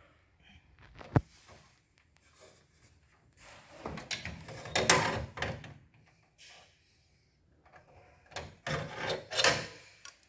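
Wiring and plastic parts of a Toshiba copier's drive assembly being handled during reassembly: one sharp click about a second in, then rubbing and scraping in two spells, midway and near the end, as wire-harness connectors are fitted.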